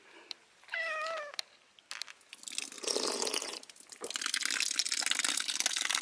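A domestic cat meows once, briefly, about a second in. A crackling, rustling noise follows and continues.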